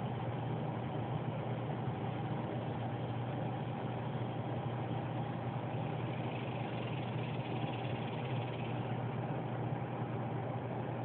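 A steady low mechanical hum with a hiss of noise above it, running without a break.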